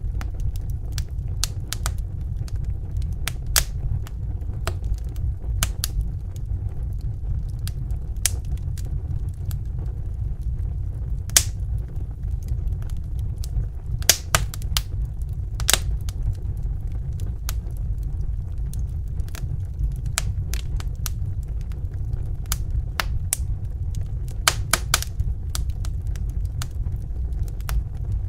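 Wood fire crackling: irregular sharp pops and snaps, a few louder ones now and then, over a steady low rumble of the flames.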